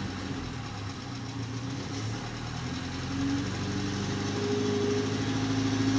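Car engine running steadily at low revs, picking up a little in revs and loudness about halfway through.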